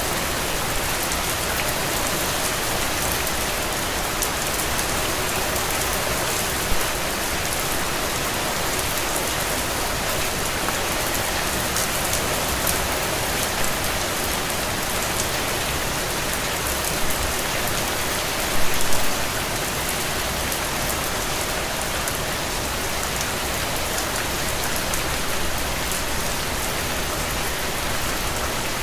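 Steady rain pattering on a window, a dense even hiss of drops with a few louder drop hits, the biggest cluster about two-thirds of the way through.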